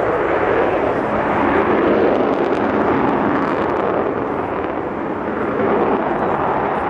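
Avro Vulcan bomber's four Olympus turbojet engines running in a steady jet noise as the aircraft flies its display, easing slightly about two-thirds of the way through.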